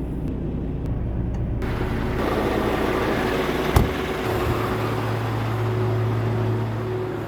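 Heavy truck's diesel engine running steadily, with a rushing noise coming in after a couple of seconds. There is one sharp click near the middle, after which the engine hum settles on a slightly higher, steadier tone.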